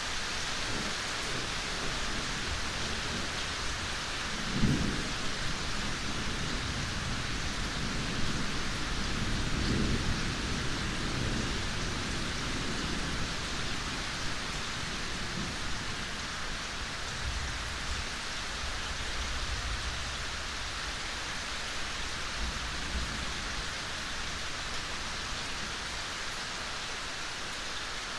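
Steady rain falling in a forest, an even hiss throughout. A sudden low thump comes about five seconds in, and low rumbling swells rise around ten seconds in and again later, like distant thunder.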